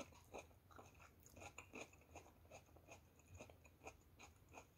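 Faint chewing of batter-fried snacks, a run of small, irregular crunches.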